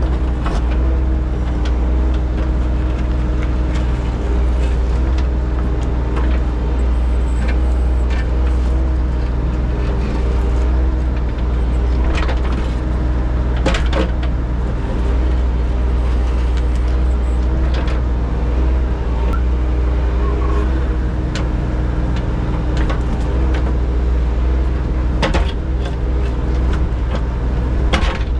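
Engine of a piece of landscaping equipment running steadily with a low rumble, heard from inside the operator's cab, with occasional knocks and clunks as the machine works.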